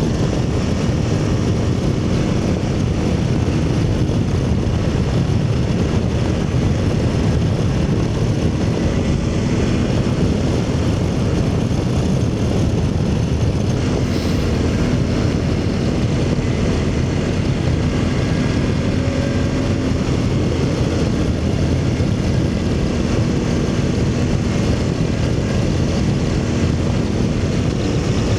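Aprilia Tuareg 660 parallel-twin motorcycle engine running at a steady cruise, nearly buried under heavy wind rush on the microphone.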